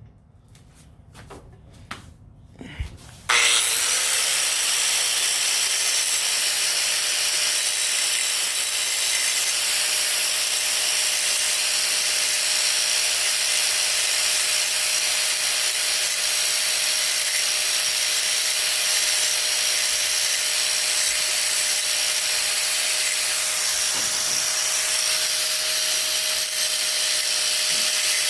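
Angle grinder starting about three seconds in, its motor whine rising quickly to speed, then grinding a bevel into the snapped metal deck-lift rod of a lawn mower: a steady loud hiss with the motor's whine held underneath. A few light clicks of handling come before it starts.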